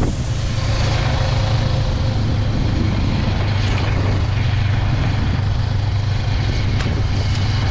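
Honda CB500X's parallel-twin engine running steadily as the motorcycle rides along.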